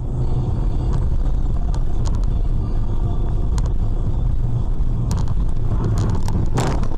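Steady low rumble of a car on the move, engine and road noise, with a few faint clicks and a brief rushing noise near the end.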